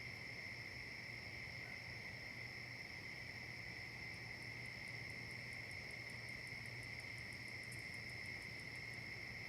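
A steady chorus of insects trilling continuously. About four seconds in, a second, higher insect adds a fast, even pulsing of about six pulses a second, which stops shortly before the end.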